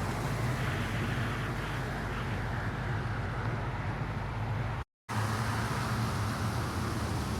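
Car engine running at low speed with a steady low hum, over street noise. The audio cuts out completely for a split second about five seconds in.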